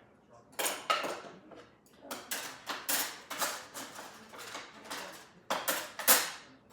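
Dishes and cutlery clattering as they are taken out of a dishwasher and put away: a string of separate clinks and knocks, the loudest about six seconds in.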